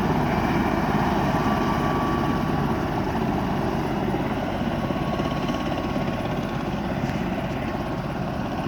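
LifeFlight medical helicopter running steadily with its rotor chop, easing slightly in loudness through the stretch.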